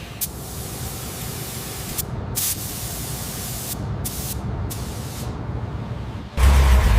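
A spray hissing steadily, broken by several short pauses. About six seconds in, a loud low rumble starts.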